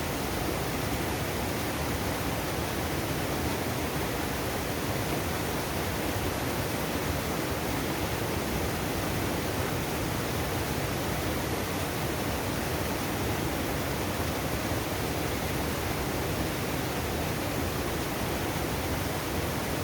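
Clear mountain stream rushing over rocks, a steady even noise of running water with no breaks.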